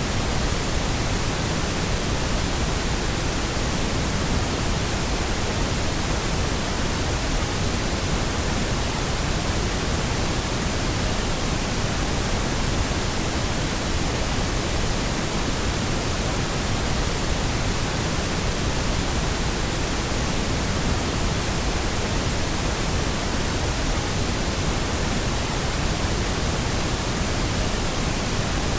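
Steady pink noise: a constant, even hiss-like rush across the whole range with no changes, generated as a sleep and sound-masking aid.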